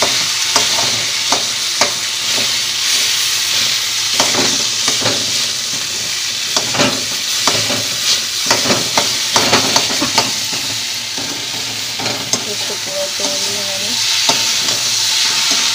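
Potatoes and onion-tomato masala sizzling in hot oil in a kadai while a steel spatula stirs them, with irregular clacks and scrapes of the spatula against the pan. The potatoes are being browned in the masala before water is added.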